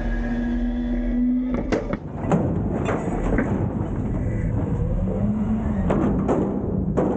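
Autocar front-load garbage truck's diesel engine running under hydraulic load, its pitch lifting a little partway through, with a series of sharp metal bangs and clatters.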